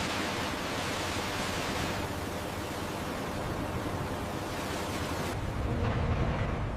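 A steady rushing noise. About five seconds in, the high hiss fades and a lower rumble grows louder.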